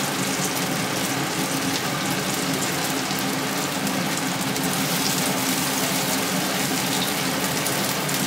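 Chicken malai boti skewers sizzling steadily as they shallow-fry in oil in a non-stick pan.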